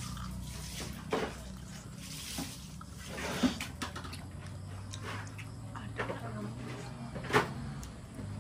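A person eating a peeled prawn: wet chewing and mouth smacks, with several sharp clicks, the loudest about three and a half and seven and a half seconds in.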